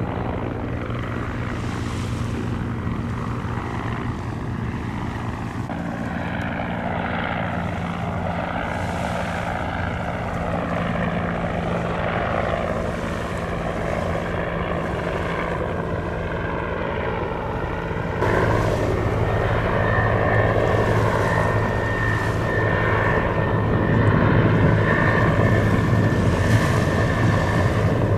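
A steady engine drone with low humming tones, stepping up in level suddenly about 18 seconds in.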